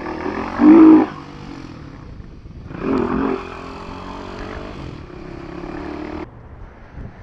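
Kawasaki KLX250SF single-cylinder motorcycle engine revving up hard twice, once just before a second in and again around three seconds, then running steadily before easing off near the end. Wind noise on the helmet microphone runs underneath.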